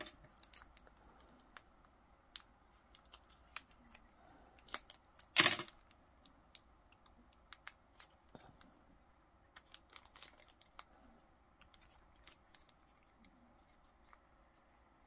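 Scattered small clicks, taps and rustles of paper-crafting supplies being rummaged through and handled on a table, with a louder short rustle about five seconds in.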